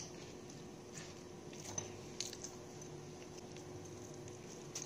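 Biting and chewing crispy fried chicken skin, with a few faint crunches over a low, steady hum.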